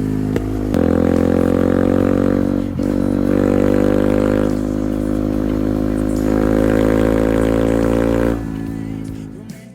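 Beta 125 motorcycle engine pulling steadily under throttle, its pitch slowly rising, with a jump in level about a second in and a brief dip near three seconds. Near the end the throttle closes and the engine note falls away.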